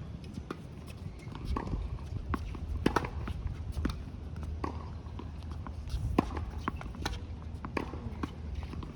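Tennis balls being struck by rackets and bouncing on the court during a hitting drill, with footsteps: a run of sharp, irregular knocks several times a second.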